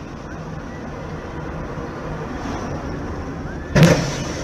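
Car driving with steady engine and road noise, then a sudden loud bang near the end: a vehicle collision.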